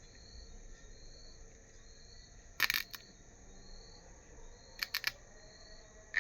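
Sharp clicks and taps: a tight cluster a little under halfway through and two more near the end. Behind them a faint, high, short chirp repeats a little more than once a second over a steady hiss.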